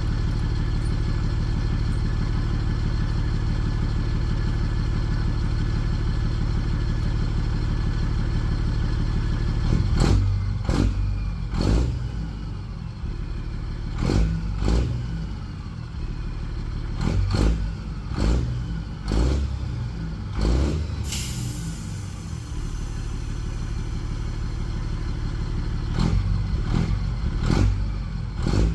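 Detroit Diesel engine of an International Harvester cab-over truck, warmed up after a cold start, idling steadily, then revved in short throttle blips every second or two from about ten seconds in. The turbo whistles and falls in pitch after the blips, and there is a brief hiss about two-thirds of the way through.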